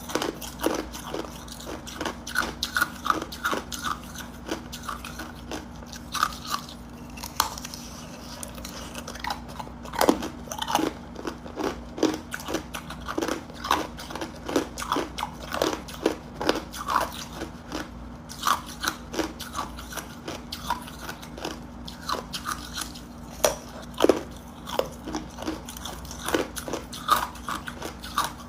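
Hard ice cubes being bitten and chewed close to the mouth: a run of sharp, irregular crunches and cracks, several a second, as the ice breaks between the teeth.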